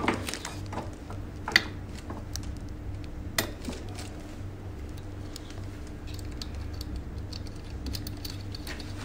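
Light clicks and small knocks of hard parts being handled as a lamp is screwed onto a slimming machine, with sharper knocks about one and a half and three and a half seconds in. A steady low hum runs underneath.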